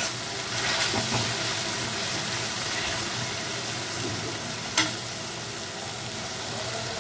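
Ginger, garlic, onion and green-chilli paste sizzling in hot oil in a kadai while being stirred, a steady hiss with a few spatula scrapes and one sharp knock about five seconds in. The paste is being fried down until its raw smell goes.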